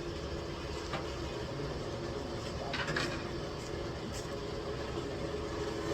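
A steady low mechanical hum, with a few light clicks about a second in and again near the middle.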